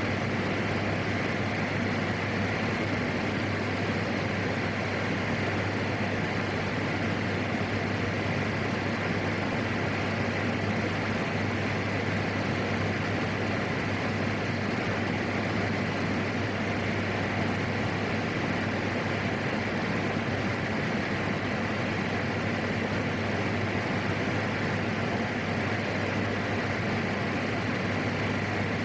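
Steady cockpit noise of a PAC 750XL's single turboprop engine and propeller in flight, an even drone with a low hum throughout.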